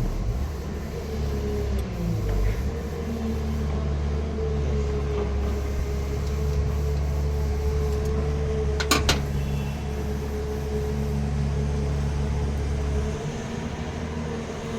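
A steady low drone from a running engine or similar machine, with a sharp click about nine seconds in.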